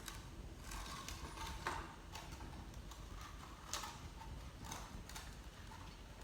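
A series of light, irregular clicks and taps, one or two a second, with a sharper one a little past the middle, over a low steady hum.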